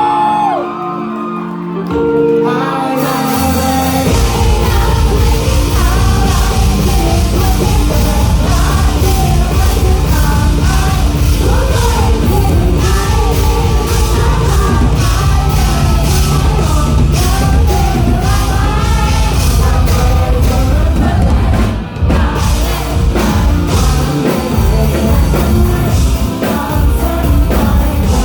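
Live rock band playing a song with singing. It opens with a few seconds of held notes, then the drums and full band come in about four seconds in. There is a brief drop in the sound a little before the end.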